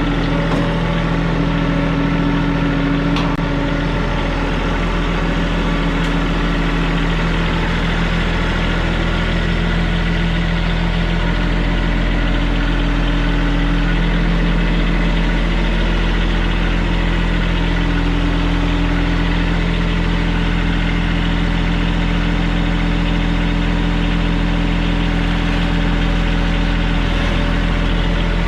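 Compact TYM tractor's diesel engine running steadily with an even hum.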